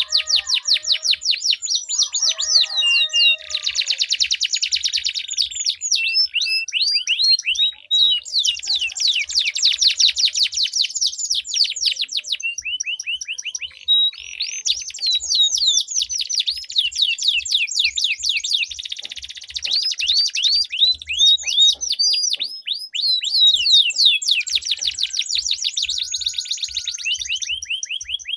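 Domestic canaries singing long, fast rolling trills of rapidly repeated high notes, phrase after phrase with only brief breaks.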